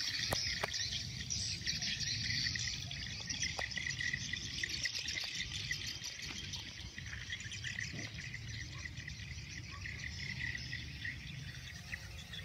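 Insects chirring in a dense, steady buzz, with a low rumble beneath.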